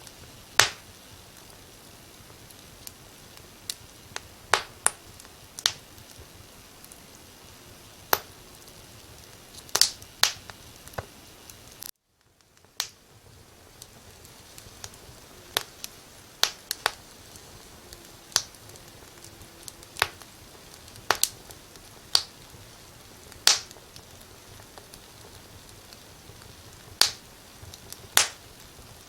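Wood fire crackling: irregular sharp pops and snaps over a faint steady hiss. The sound cuts out for a moment about twelve seconds in and fades back in.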